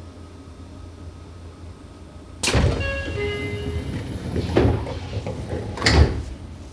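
Seibu 6000 series commuter train's sliding passenger doors closing at a station stop. A sudden rush of noise about two and a half seconds in, with brief squeaky tones, is followed by two heavy thuds, the second the loudest, near the end.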